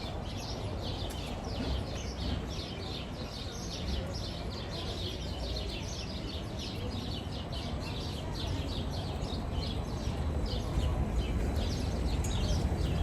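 Outdoor street ambience: a low crowd murmur and rumble, with a steady run of short high chirps, about three or four a second, and the rumble growing louder near the end.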